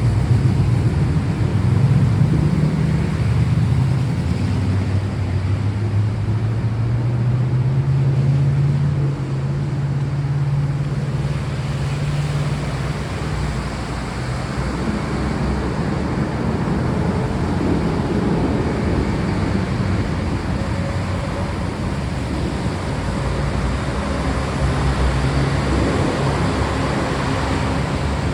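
Steady rain with a deep, drawn-out rumble of thunder underneath, heaviest in the first half and easing off by the middle.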